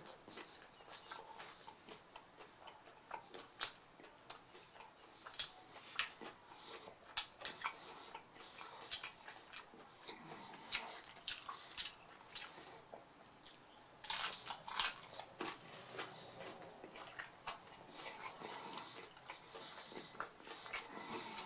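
A person biting and chewing a crunchy fried mini beef taco shell close to the microphone, a run of short crisp crunches and crackles, with a louder burst of crunching about two-thirds of the way through.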